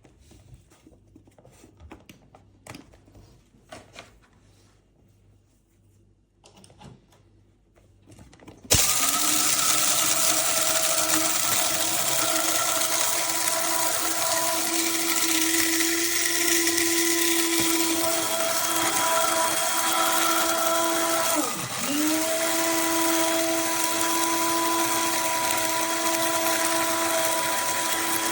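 Amazon Basics electric blade coffee grinder: a few faint handling clicks, then about nine seconds in the motor starts and runs with a steady high whine. About two-thirds of the way through, the pitch sags briefly and then comes back up.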